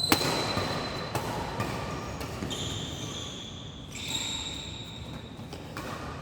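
Badminton play in a hall: a sharp racket smack on the shuttlecock right at the start, a few lighter knocks, then two long high squeaks, typical of shoes skidding on the court floor.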